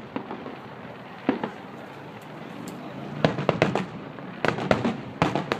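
Fireworks going off: a single sharp bang about a second in, then rapid, irregular clusters of cracking reports in the second half.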